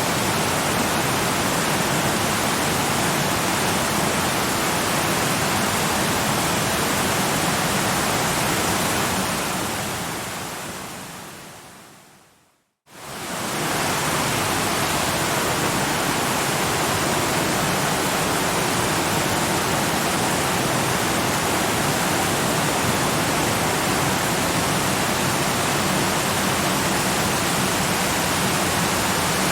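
Steady rushing waterfall noise, even across low and high pitches. It slowly fades out from about nine seconds in, goes silent for a moment just before thirteen seconds, and swells back to full strength within about a second.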